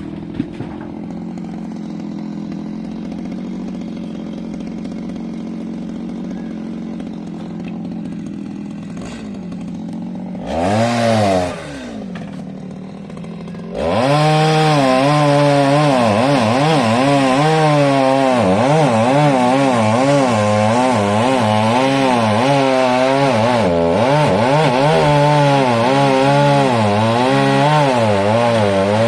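Chainsaw idling steadily, revved briefly once, then held at full throttle from about halfway through, its pitch wavering up and down as the chain cuts into wood.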